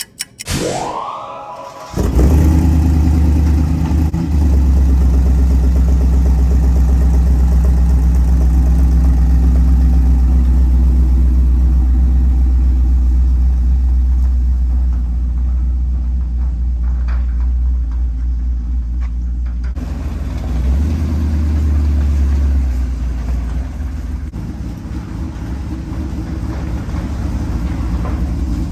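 A short rising sweep, then a vehicle engine running steadily under way with a heavy low rumble.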